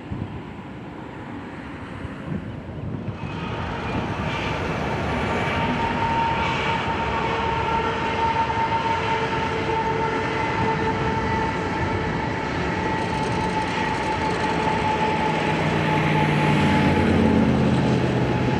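Freight train led by two BNSF diesel locomotives crossing a river bridge, its engines and wheels rumbling louder from about three seconds in, with a steady high whine running through the pass.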